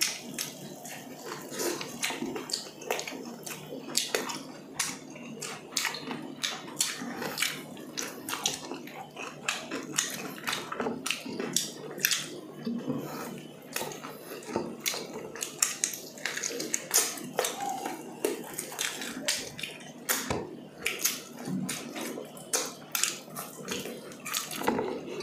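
Close-miked chewing and lip-smacking of people eating grilled chicken and rice by hand: a stream of irregular, wet mouth clicks and smacks.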